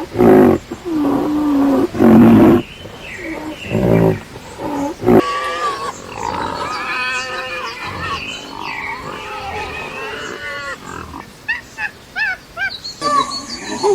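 Animal calls: several loud, low, drawn-out roaring calls in the first five seconds, then a busier mix of higher, wavering calls, and a quick run of short chirps near the end.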